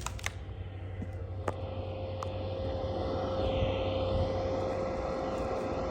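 American Standard gas furnace's draft inducer blower running steadily, a low hum under a steady whine, with a few sharp clicks in the first couple of seconds.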